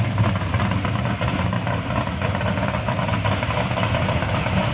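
A car engine idling steadily with a rapid, pulsing low note.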